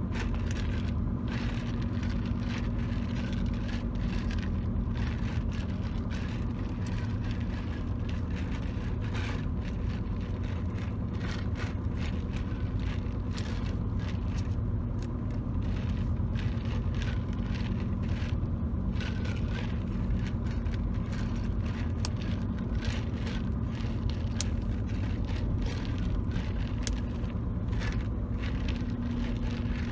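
Steady low rumble of a moving car heard from inside the cabin, with frequent light taps and scratches of fingertips on the car's interior surfaces.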